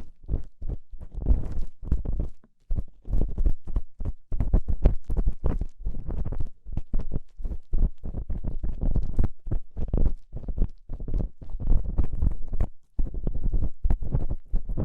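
Ear-cleaning tool scraping and crackling against the microphone: a dense run of rough scratches and clicks, broken by short pauses about two and a half seconds in and near the end.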